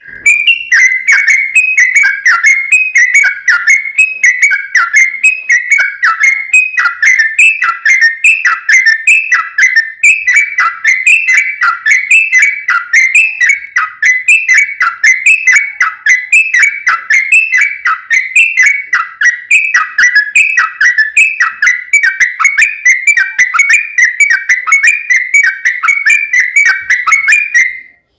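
Yellow-vented bulbul (trucuk) singing a long unbroken run of its 'ropel' song: short, rapid, downward-sliding notes repeating about twice a second. This is a lure recording meant to provoke caged trucuk into answering.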